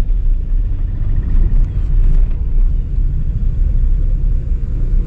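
Car on the move, heard from inside: a steady low rumble of engine and road noise.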